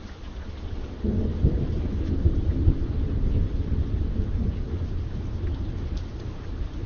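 Thunder rolling over steady rain: a low rumble builds, breaks out loudly about a second in, then slowly fades.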